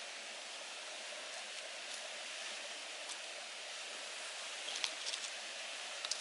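Steady rush of water flowing in a mountain stream, with a few short sharp clicks scattered through it, a small cluster about five seconds in.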